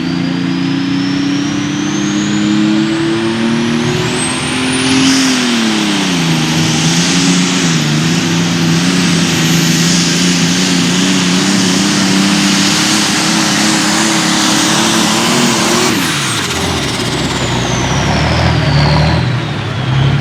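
Turbocharged engine of a super stock pulling tractor at full throttle under load: it climbs with a rising turbo whistle, dips once, then holds high and steady. Near the end the throttle comes off, and the engine and turbo whistle fall away to a lower rumble.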